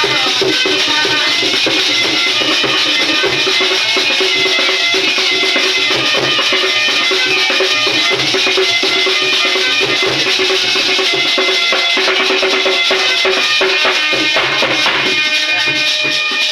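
Instrumental bhajan music: a dholak drum keeps an even beat under long held melody notes, with other light hand percussion.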